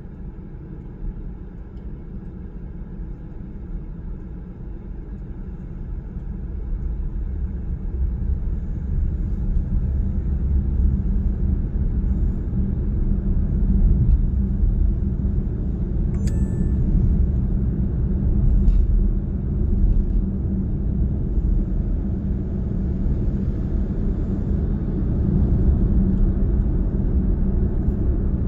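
A moving car's road and engine noise heard from inside the cabin: a steady low rumble that grows louder from about six seconds in, with a faint click around the middle.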